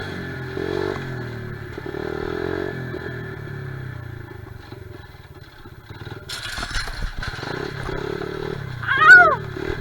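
Honda XR70R pit bike's small four-stroke single-cylinder engine running, its pitch rising and falling as the throttle is worked. About six seconds in comes a brief hiss, and near the end a short, loud squeal falling in pitch.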